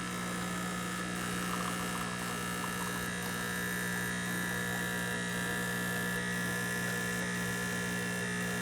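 Espresso machine's vibratory pump buzzing steadily through a shot, drawing cold water into the small boiler.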